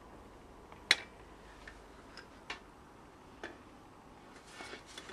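A few sharp clicks and taps, the loudest about a second in, then two smaller ones spaced about a second apart, with a soft rustle near the end.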